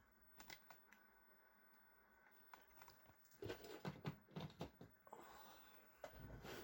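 Faint clicks and knocks of parts and tools being handled, with a denser run of them about three and a half to four and a half seconds in, then a low hum that comes in near the end.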